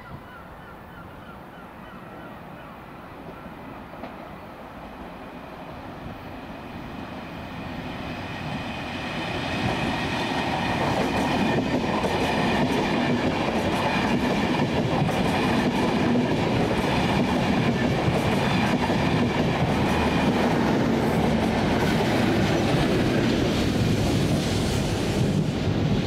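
Enterprise express passenger train approaching and passing the platform. The rumble grows over about ten seconds, then the wheels and coaches run past loud and steady with a clickety-clack on the rails.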